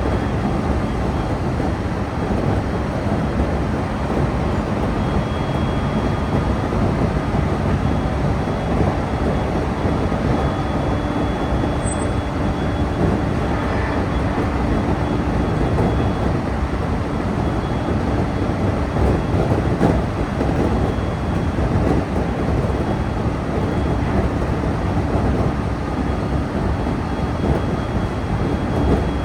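Steady running noise of a local electric train heard from inside the car: a continuous rumble of wheels on rail, with a faint thin high tone coming and going.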